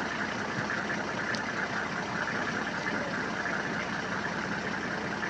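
Safari vehicle's engine running steadily, an even, unchanging noise.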